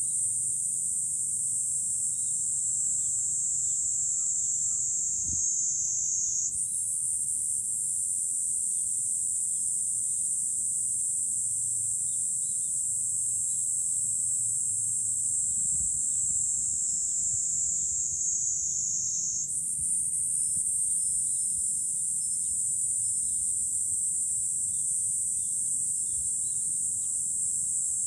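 A summer chorus of cicadas makes a steady, dense, high-pitched drone whose pitch sags slowly and jumps back up twice, about six seconds in and near twenty seconds. Under it runs a low steady rumble of wind.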